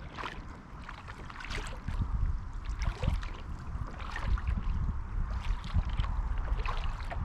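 Kayak paddle strokes splashing and dripping on calm canal water, over a low rumble that grows louder after about two seconds.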